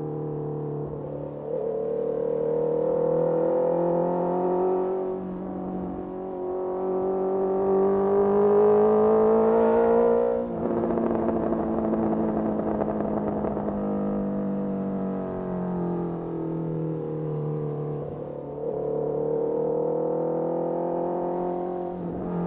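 Honda CBR650R's inline-four engine through a Mivv MK3 carbon exhaust, pulling hard with its pitch rising and a brief dip about five seconds in that sounds like a gear shift. About ten seconds in the throttle closes and the engine winds down with falling pitch. Near the end it accelerates again.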